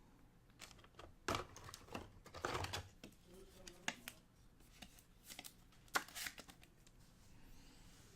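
Trading cards and their packaging being handled: short spells of rustling and crinkling with a few sharp clicks, the loudest click about six seconds in.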